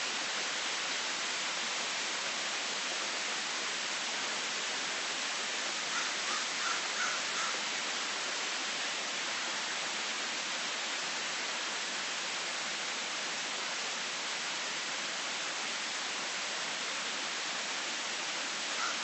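Steady heavy rain falling, an even hiss. About six seconds in, a bird gives a short run of brief calls over it.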